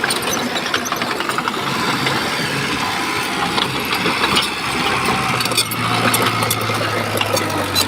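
Shantui bulldozer's diesel engine running steadily, with scattered clicks and clatter over it; the engine note grows steadier about two thirds of the way in.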